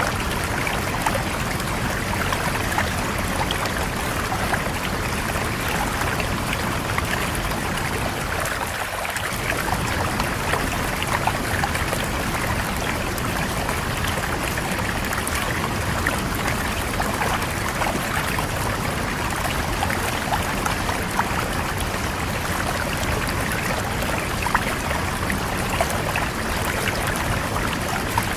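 River water flowing and splashing over rocks in a steady rush, with small splashes and trickles throughout.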